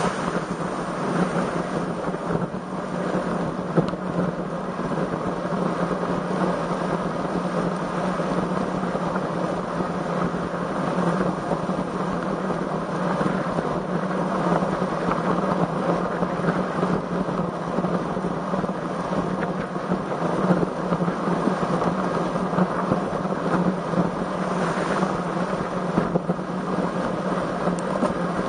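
Wind rushing over the microphone of a camera carried on a moving road bicycle, a steady, unbroken noise.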